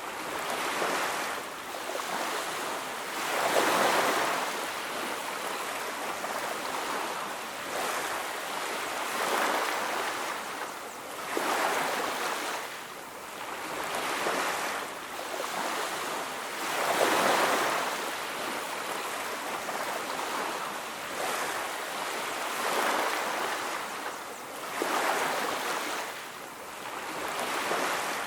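Sea surf washing onto a beach, waves swelling and breaking one after another every few seconds, some louder than others.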